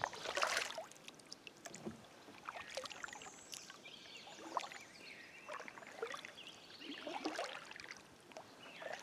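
Kayak paddle strokes on calm water: faint, irregular splashes and drips as the blades dip in and lift out.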